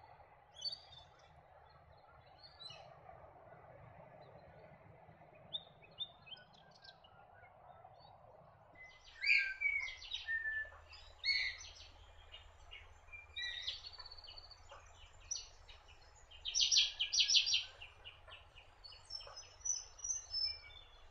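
Birds calling and chirping: short high notes scattered through, growing busier about halfway, with a quick run of repeated notes near the end, over a steady outdoor background hiss.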